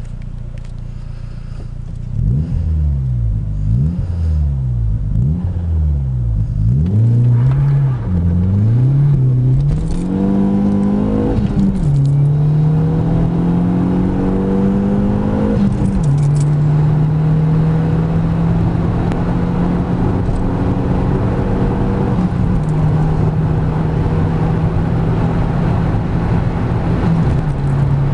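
VW Golf GTI's 1.8-litre turbocharged four-cylinder engine under hard acceleration. The revs flare up and down rapidly a few times in the first seconds, with wheelspin on a damp road. It then pulls up through the gears, with four upshifts where the pitch drops suddenly before climbing again.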